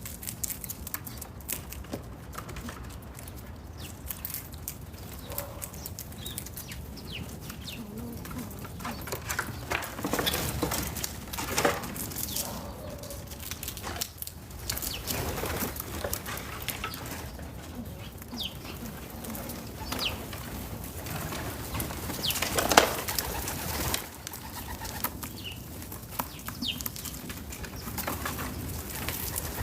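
Backyard feeder ambience: scattered short bird chirps over a steady outdoor hiss, with small clicks and rustles and a few louder noisy bursts, the loudest about 23 seconds in.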